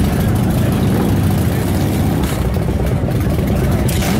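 Motorcycle engine idling steadily, a loud low running sound with a fast, even pulse.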